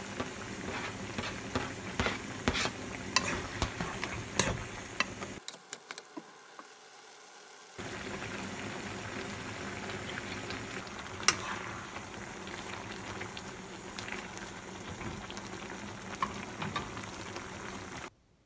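Spicy stir-fried pork (jeyuk-bokkeum) sizzling in a frying pan while a spatula clicks and scrapes against the pan as it is stirred. The sizzle drops away for about two seconds partway through, then carries on steadily with an occasional knock and cuts off just before the end.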